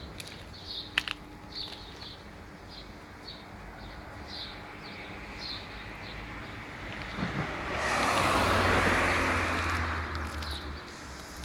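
Scania 124L 420 truck, a straight-six diesel, driving past. Its engine and tyres rise about seven seconds in, are loudest a second or two later, then fade away. Before it, a short high chirp repeats about twice a second.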